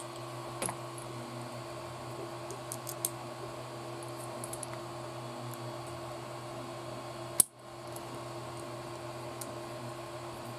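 Light clicks and taps of small hand tools and plastic parts being handled during model assembly, over a steady background hum, with one sharp, loud click about seven seconds in.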